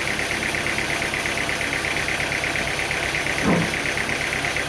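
An engine running steadily at a low, even speed, with a rapid regular pulsing. A short falling sound cuts across it about three and a half seconds in.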